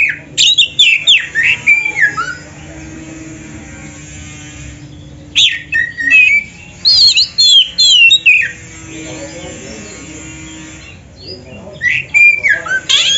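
Oriental magpie-robin (kacer) singing in three bursts of loud, rapid whistled phrases that slide up and down in pitch. Between the bursts there are pauses of a few seconds with only a faint low hum.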